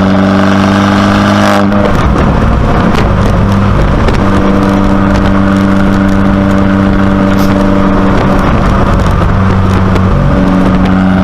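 Abarth 595C Competizione's turbocharged 1.4-litre four-cylinder engine running through a Record Monza exhaust. It holds a steady engine note, which breaks into a rougher, crackly stretch with scattered pops about two seconds in and again about eight seconds in, each time settling back to the steady note.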